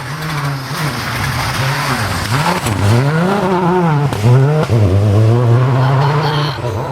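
A rally car's engine running hard, its revs dipping and climbing several times and dropping sharply once about two-thirds of the way through as it brakes and changes gear. A steady hiss of noise runs over it.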